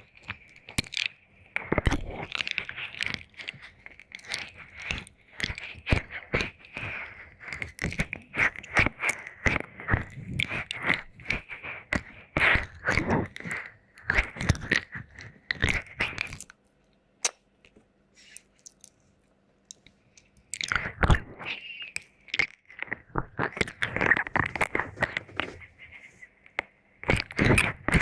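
Wet mouth sounds close on the microphone: licking and lip smacking in a dense run of wet clicks. They stop for about four seconds past the middle, then start again.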